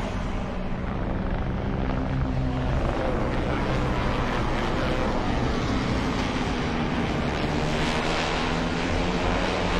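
Steady engine drone with an even rushing hiss, holding level throughout.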